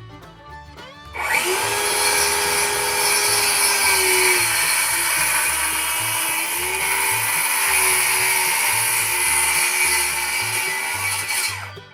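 Power tool running on wood for about ten seconds, starting about a second in and stopping near the end, its steady pitch dipping slightly in places as it takes load. Faint fiddle music plays underneath.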